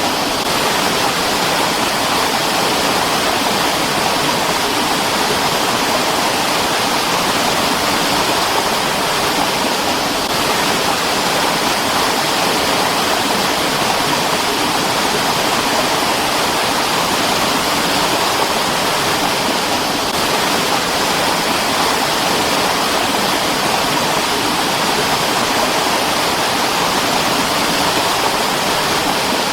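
Mountain stream water rushing, a steady, even sound with no breaks.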